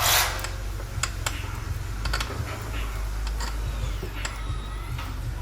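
Scattered, irregular clicks and light metallic taps of hand tools and parts being handled during engine-bay work, after a short rushing noise right at the start.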